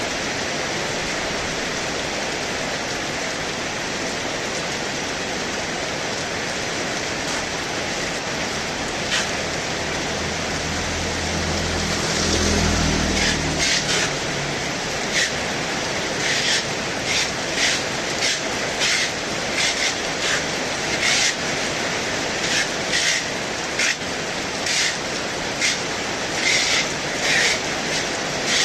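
Heavy rain with wind, a steady hiss throughout. A low rumble swells and fades about halfway through, and after it comes a string of sharp, irregular clacks, roughly one or two a second.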